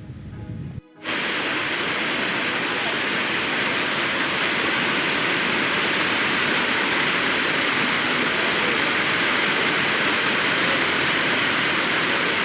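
A loud, steady rushing hiss with no pitch. It starts abruptly about a second in, after a brief drop in level.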